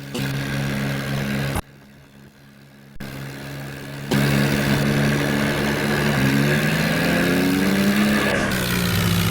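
Tractor engine running, in several short edited pieces with sudden jumps in level. About six seconds in, its pitch rises as the engine revs up, then holds steady.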